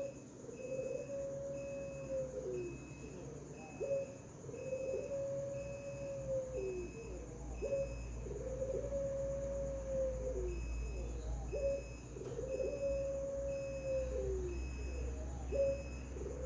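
Puter pelung dove (domestic collared dove) cooing in its high 'ngelik' voice. About four phrases, repeating every three to four seconds, each a short rising note followed by a long held coo that drops off at the end.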